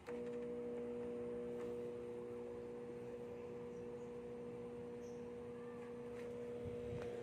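Microwave oven switching on with a click, then running with a steady hum on a test run after its magnetron was repaired.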